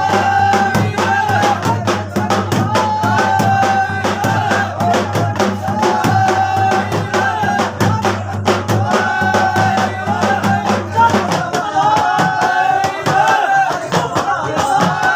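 Live Rajasthani folk singing-party music: a fast, dense percussion rhythm under sustained melodic lines, with a low steady drone underneath that stops about eleven seconds in.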